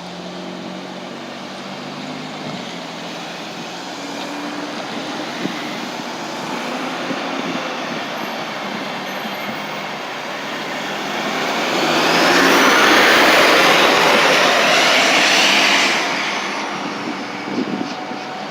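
A steady engine tone, then a vehicle passing close by: a rushing sound swells over a few seconds, is loudest about two-thirds of the way through, and fades away near the end.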